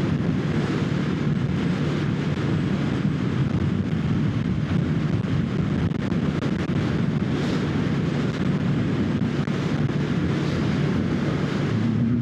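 Kawasaki Ninja 650 parallel-twin engine running at a steady cruise while riding, under heavy wind rush on the microphone.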